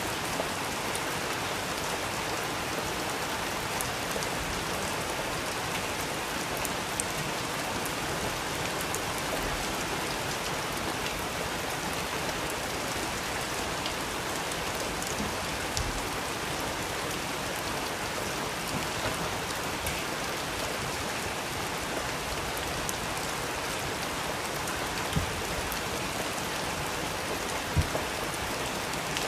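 Steady rain falling, an even hiss with a few sharp taps standing out, mostly near the end.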